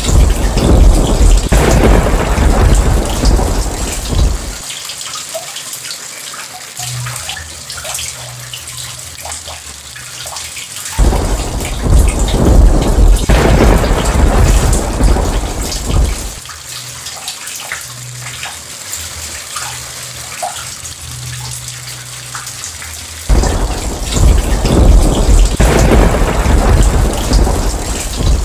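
Steady heavy rain with three long rolls of thunder, each about five seconds long. The rolls come at the start, about eleven seconds in and about twenty-three seconds in; each begins suddenly and stops abruptly.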